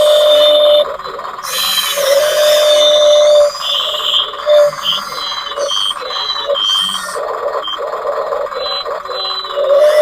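Small electric motors of an RC toy excavator whining in short, stop-start bursts over a steady hum, as the controls are worked.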